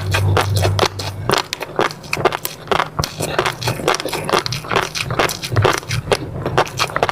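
Close-miked mouth eating sounds: a rapid, irregular run of wet clicks, crackles and smacks from chewing. A low hum sits under them during the first second.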